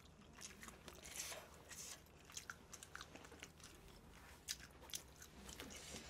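Faint close-miked chewing of a mouthful of sauced fried chicken, with scattered small clicks from the mouth.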